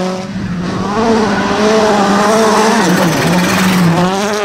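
Rally car engine running hard at high revs. Its pitch drops briefly about three seconds in, then climbs again.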